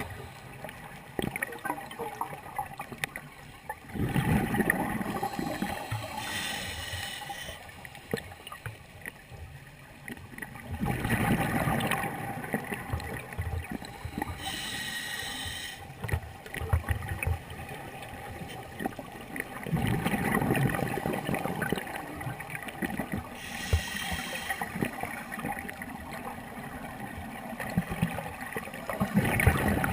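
Scuba diver breathing through a regulator underwater. Each exhalation is a gurgling rush of bubbles, followed a second or two later by a short hiss as the next breath is drawn, in a slow cycle about every eight or nine seconds.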